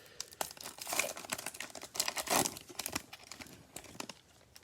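A foil trading-card pack wrapper being torn open and crinkled, a series of quick rips and crackles, loudest about one second in and again around two and a half seconds in.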